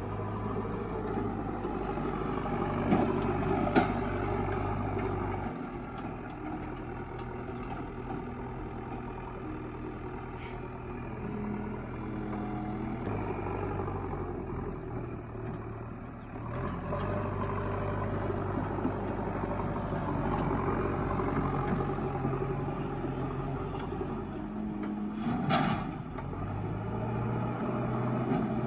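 Diesel engine of a JCB 3DX backhoe loader running under varying load as it works, its note stepping up and down several times, with a few sharp clanks.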